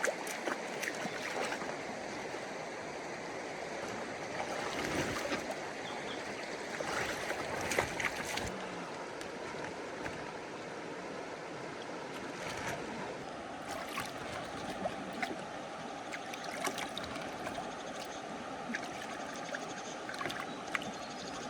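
Steady rushing and sloshing of water, with scattered small splashes and knocks.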